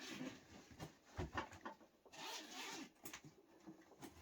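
Faint rustling and handling of a bag, with a zip drawn open in one longer rasp about two seconds in, among scattered small clicks.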